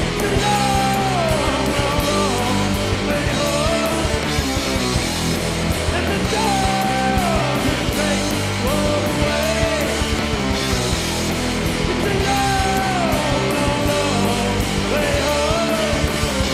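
Live rock band playing loud, dense music with guitars, bass and drums, and a falling melodic line that repeats about every three seconds.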